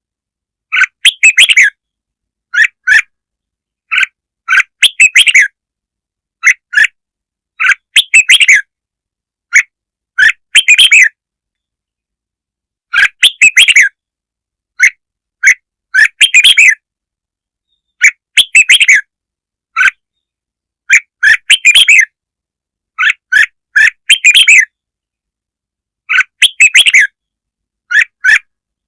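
Red-whiskered bulbul song used as a lure call: short, quick phrases of clear chirping notes, repeated every couple of seconds with silent gaps between them.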